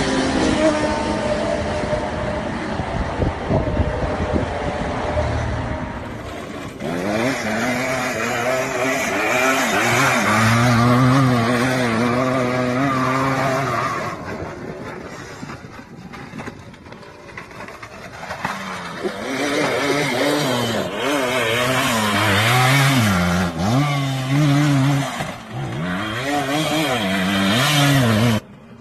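Dirt bike engines revving hard, the pitch rising and falling again and again. The sound changes abruptly about six seconds in, as at a cut between clips, and stops suddenly just before the end.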